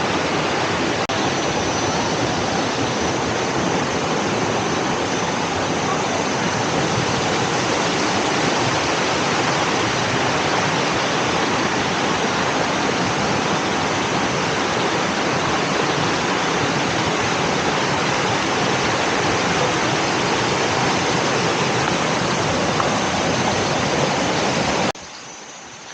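Waterfall water rushing in a loud, steady wash, cutting off abruptly near the end.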